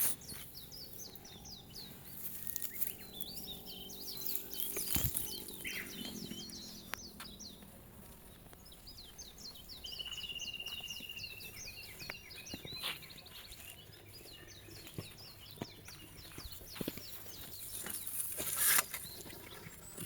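Small songbirds singing and chirping throughout, with a rapid trill about ten seconds in. Scattered faint clicks and a louder knock near the end.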